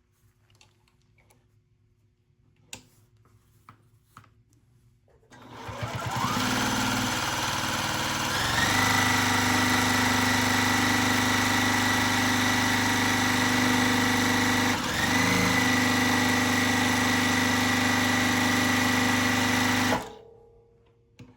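Juki TL-15 semi-industrial straight-stitch sewing machine starting up about five seconds in, speeding up to a steady fast run with a high whine, easing off for a moment midway, then stopping abruptly near the end. A few faint clicks of handling come before it starts.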